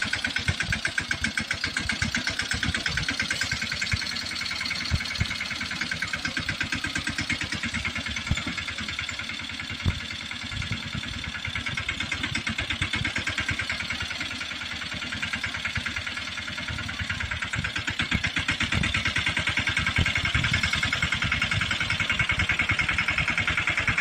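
Mahindra 215 mini tractor's single-cylinder diesel engine running with rapid, even firing pulses. It dips slightly around the middle and grows louder in the last few seconds.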